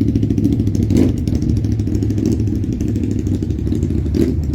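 Motorcycle engine running steadily as it rides past in traffic, with two short sharp sounds, about a second in and near the end.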